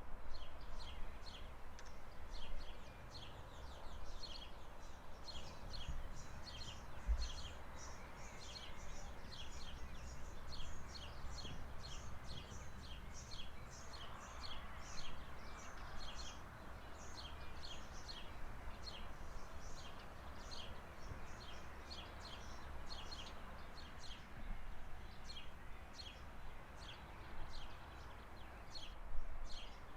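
A bird chirping over and over, short high notes that each drop quickly in pitch, about two or three a second throughout, over a steady low rumble.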